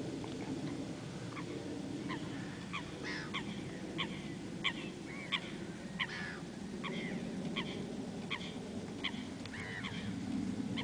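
Birds calling over and over with short, sharp calls, about one or two a second, over a steady low rumble.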